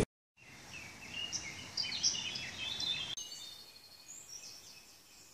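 Songbirds chirping and singing, faint, with many short high notes in the first three seconds, thinning out after.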